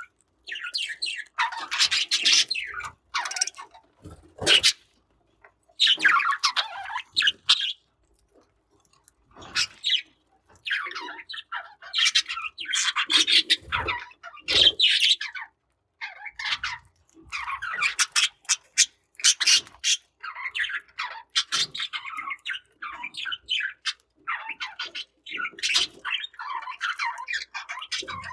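Budgerigars chirping and chattering in quick, scratchy bursts, with a brief pause about a third of the way through.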